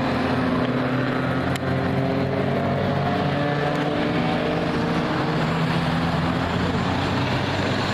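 Race car engines running steadily on the speedway, a continuous drone whose pitch shifts slowly. A single sharp click about a second and a half in.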